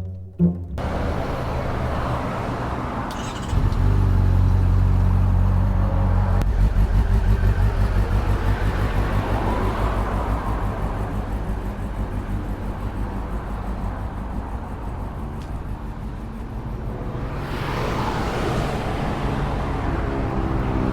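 Honda CB400 Super Four's inline-four engine running under way on a ride, its level stepping up about three and a half seconds in as the throttle opens, then easing off gradually. A rush of noise swells and fades about three quarters of the way through.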